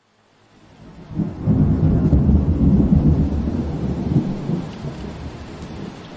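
Steady rain with a rolling rumble of thunder. The sound fades in from silence, the low rumble swells about a second in, then dies away over the next few seconds, leaving the rain.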